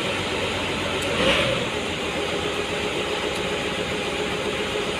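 Motor grader's diesel engine running steadily, with a faint steady whine coming in about a second and a half in.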